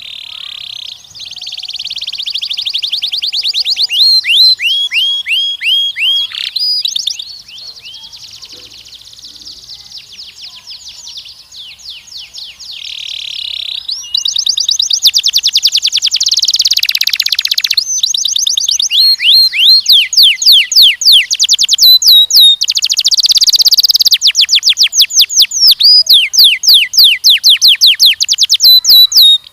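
Canary singing a long song of rapid trills: each phrase is a quick string of repeated chirps that changes to a new pattern every second or two. The song is softer for a few seconds in the middle and stops abruptly at the end.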